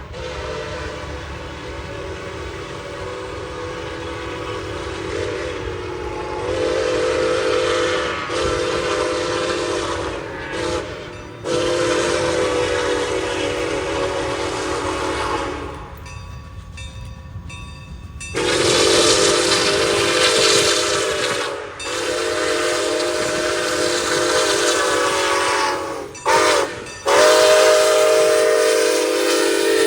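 Locomotive air horn sounding a series of long blasts, with a short blast near the end followed by another long one, like a grade-crossing signal. A low rumble from the train runs underneath.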